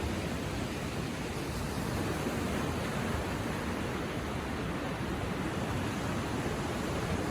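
Gentle ocean surf washing on a beach: a steady hiss with no distinct wave breaks standing out.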